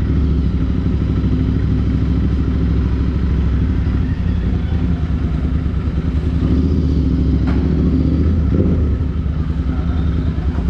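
Royal Enfield Interceptor 650's 648 cc parallel-twin engine running steadily at low revs through a Chris Michael aftermarket exhaust, with a short click about seven and a half seconds in.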